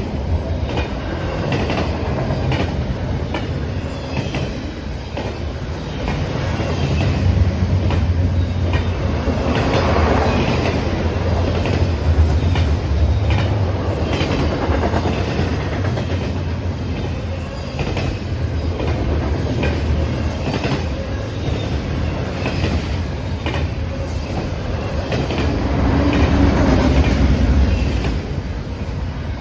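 A train's cars rolling past at close range: a steady low rumble with the wheels clacking over rail joints in an even repeating rhythm.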